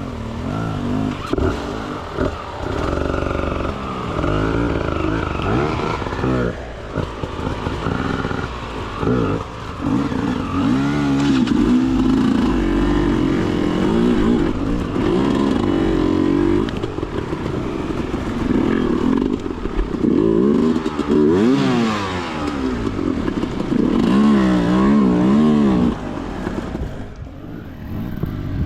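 Enduro dirt bike engine revving up and down again and again under bursts of throttle, its pitch rising and falling every second or so; it eases off near the end.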